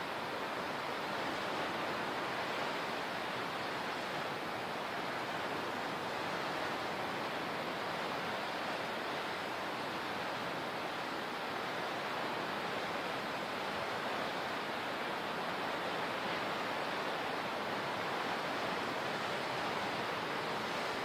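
Steady rushing water, an even roar that holds level without swelling or breaking.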